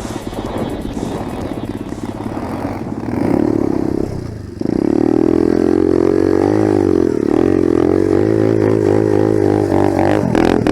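Enduro dirt bike engine running under way, its pitch rising and falling with the throttle. The engine drops off briefly about four seconds in, then pulls hard at steady high revs.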